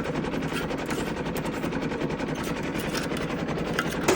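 Compact tractor's engine running steadily with a rapid, even chug as it pulls a tillage implement across the plowed field.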